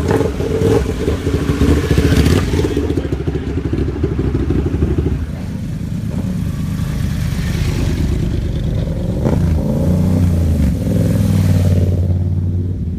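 Superbike engines running loud, with a dense engine note that changes about five seconds in and rises in pitch again in the second half.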